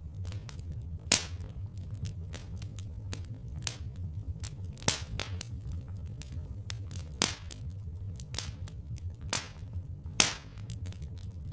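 Wood fire crackling: frequent small pops and several louder snaps, the sharpest about a second in and near the end, over a steady low rumble.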